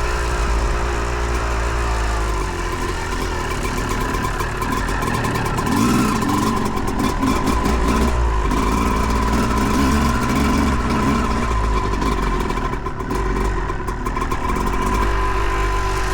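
Dirt bike engine running hard as the bike is ridden, the throttle opening and easing off.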